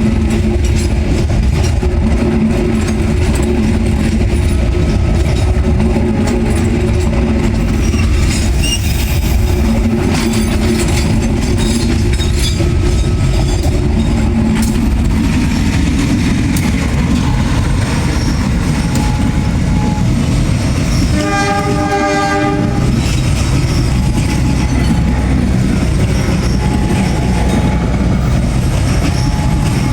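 Train hauled by two diesel-electric locomotives, a CC 203 and a CC 201, running with a steady heavy rumble of engines and wheels on the rails. About two-thirds of the way through, a locomotive horn sounds one blast of a second or two.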